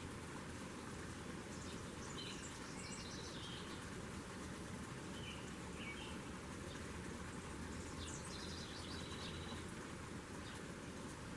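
Small birds chirping in three short bursts of high calls, over a steady outdoor background hiss.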